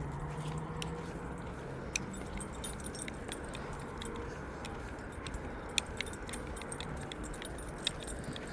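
Small metal pieces jingling and clinking at irregular moments, with a few sharper clicks, over a steady low rumble.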